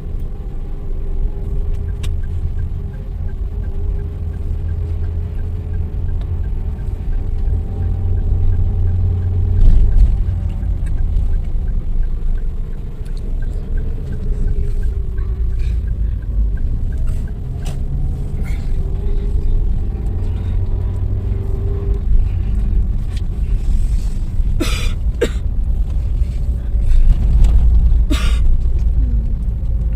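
Car driving, heard from inside the cabin: a steady low road and engine rumble, with the engine note slowly rising and falling as the car speeds up and eases off. A few sharp knocks and rattles come about three-quarters of the way through.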